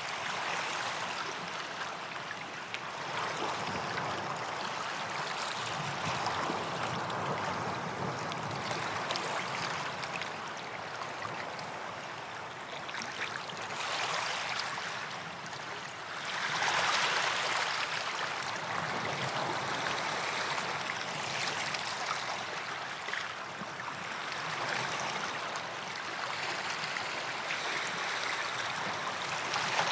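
Small waves lapping and washing on a sandy beach, swelling and ebbing, with a larger wash about seventeen seconds in.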